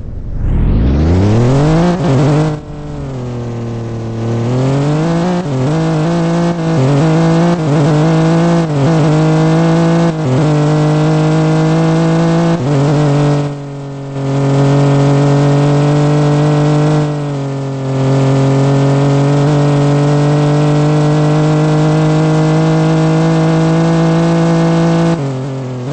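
Car engine revved hard: it climbs sharply at the start and goes through a string of quick revs. It is then held at high revs for about ten seconds, with a brief drop partway through, and falls away near the end.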